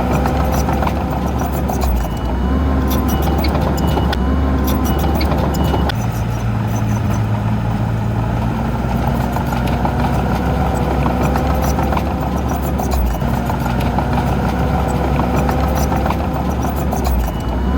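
Heavy diesel engines of earth-moving machinery running steadily, their note and load shifting every few seconds. A short high beep repeats about twice a second at times.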